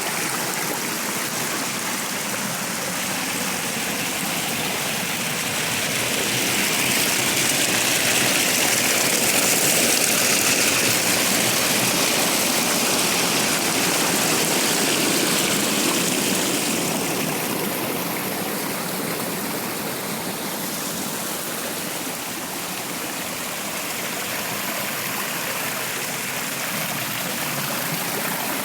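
Running water flowing steadily, an even rush that swells a little louder for several seconds in the middle.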